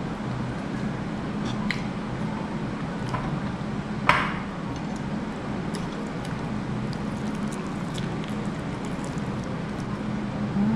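A person eating close to the microphone: wet chewing and squishing of braised pork hock, with small clicks. A single sharper, louder knock comes about four seconds in, and a steady low hum runs underneath.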